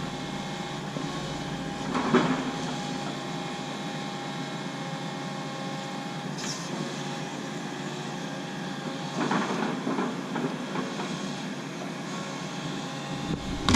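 John Deere 135 excavator running under load, a steady engine and hydraulic drone with held whining tones. A few louder noises come about two seconds in and again around the middle of the stretch, as the tree is worked over.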